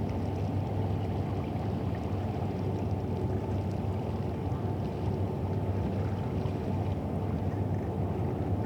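Steady low rumble of river ambience with a constant low hum underneath, holding an even level throughout, and faint light ticks higher up.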